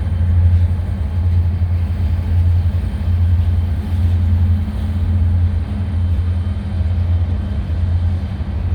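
A steady, unchanging low engine rumble, like an engine idling.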